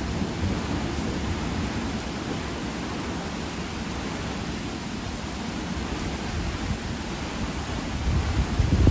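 Summer thunderstorm: steady rain with a low rolling rumble of thunder under it, the rumble easing off in the middle and swelling louder again near the end.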